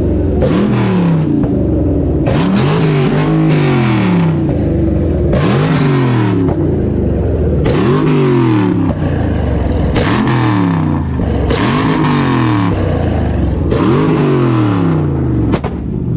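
Car engine revved hard over and over, about every two seconds, its pitch climbing and dropping back each time.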